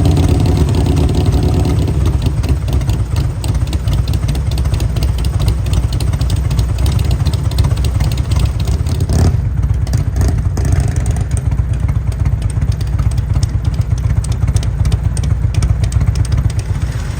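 Motorcycle engine running steadily close by, a deep, pulsing rumble with a brief sharper sound about nine seconds in.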